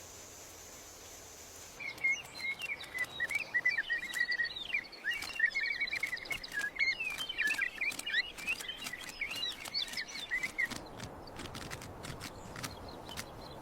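A steady high insect-like buzz, then from about two seconds in birds chirping and chattering rapidly for about nine seconds, mixed with many sharp ticks; after that, only faint ticks and background hiss.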